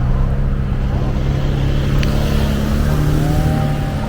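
Motor vehicle running with a steady low hum and road noise; a higher whine joins about three seconds in.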